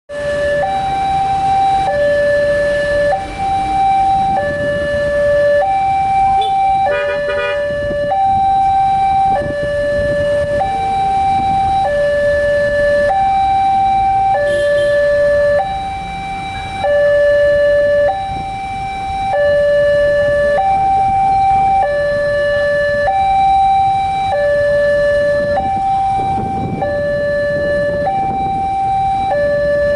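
Indonesian railroad level-crossing warning alarm sounding its repeating two-tone signal, alternating a higher and a lower tone each held about a second, over a low traffic rumble.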